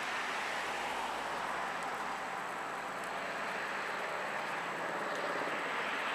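Yard fire of scrap wood burning, a steady rushing noise with a few faint crackles.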